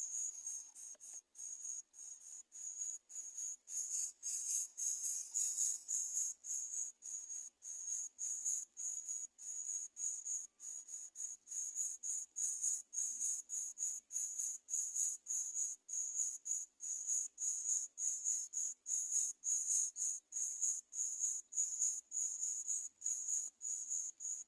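An insect chirping steadily: a high, even pulse repeating about two to three times a second.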